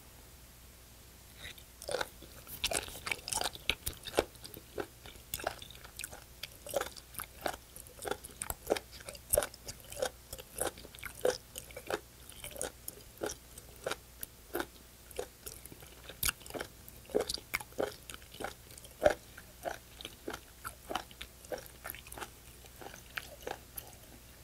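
Close-miked chewing of raw spoon worm: a steady run of sharp chewing clicks, about two a second, starting a second and a half in.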